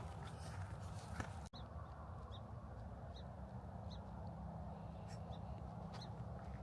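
Faint short bird calls, single high chirps about once a second, over a steady low rumble of wind and handling noise.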